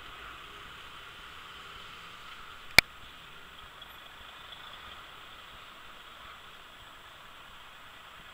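Jet noise from an Airbus A320's IAE V2500 turbofan engines on takeoff: a steady hiss that slowly fades. A single sharp click about three seconds in.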